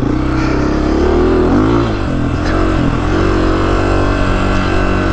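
Honda CRF250F dirt bike's single-cylinder four-stroke engine running under throttle while being ridden, its pitch rising and falling as the throttle is worked.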